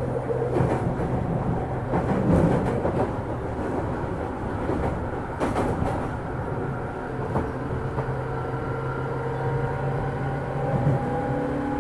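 Running sound inside a JR 205 series electric train's motor car: a steady low hum with a few clicks from the wheels and rails, and a motor whine that rises in pitch from about halfway through as the train gathers speed.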